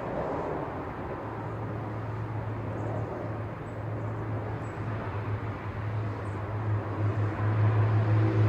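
City traffic noise, with a low steady engine hum coming in about a second in and growing louder near the end.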